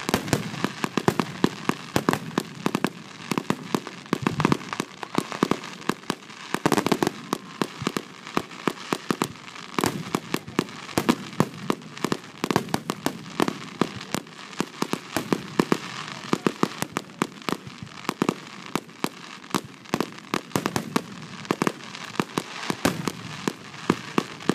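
Aerial fireworks display: a dense, unbroken string of shell bursts and bangs, several a second, with crackling between them.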